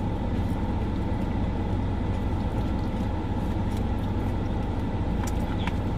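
Steady low rumble of a car engine idling, heard inside the car's cabin, with a couple of faint clicks near the end.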